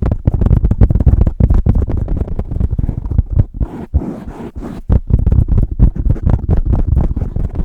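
Hands rapidly working a Blue Yeti microphone at close range in fast, aggressive strokes: a dense run of loud, low, muffled thumps and rubbing with a few brief breaks.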